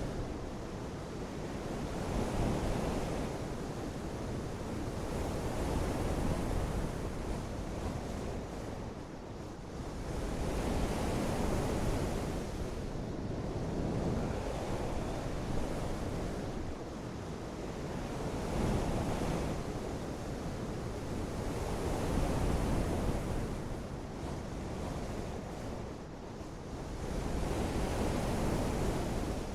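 Steady rushing noise of a rain-and-weather ambience, swelling and easing every few seconds.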